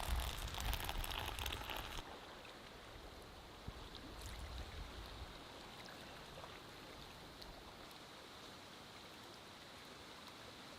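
Wind buffeting the microphone with a low rumble, cutting off abruptly about two seconds in. Then light rain pattering steadily, with scattered drops ticking.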